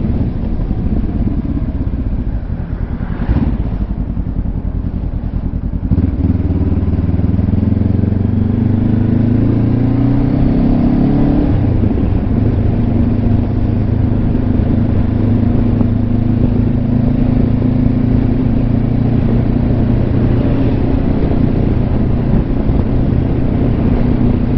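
Honda CB500X parallel-twin engine heard from inside the rider's helmet. For the first few seconds it runs quieter and low. About six seconds in it accelerates with rising pitch, drops in pitch at a gear change near the middle, then runs at a steady cruising pitch.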